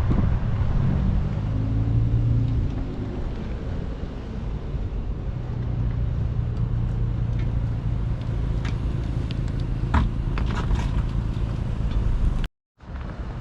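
Car driving: a low engine hum with road rumble, the engine note climbing briefly in the first couple of seconds, then running steadily. A short dropout to silence comes near the end.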